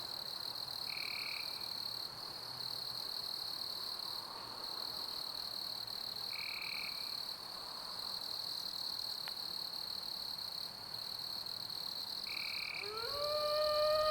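Night chorus of crickets trilling steadily, with a short high call repeating three times about every five or six seconds. Near the end an animal's howl rises and holds.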